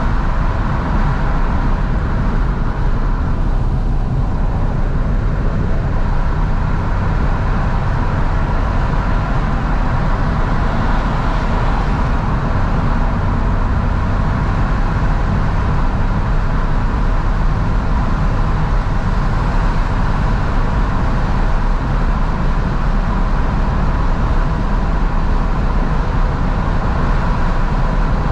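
Steady road and wind noise heard from inside a moving Fiat 500 with its windows fully open, the car's engine running under it.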